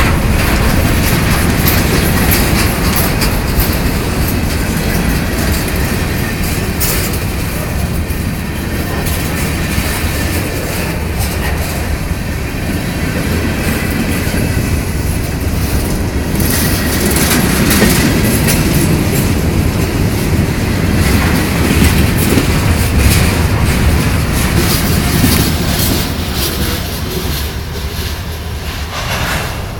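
Ferromex freight train rolling past close by: a steady rumble of railcars with wheels clicking over rail joints, easing off near the end.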